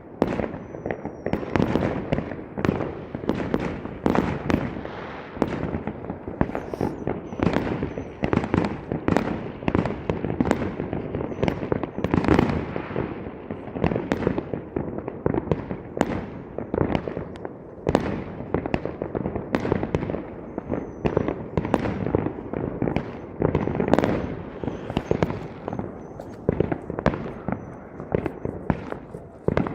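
Fireworks going off in a dense, continuous barrage of bangs and bursts, several a second, with faint high whistles now and then.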